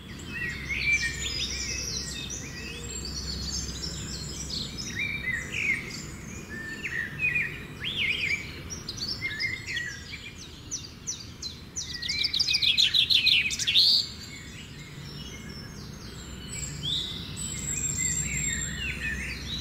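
Several birds chirping and calling, with a fast run of rapidly repeated high notes, the loudest part, about two-thirds of the way through. A steady low rumble of background noise lies underneath.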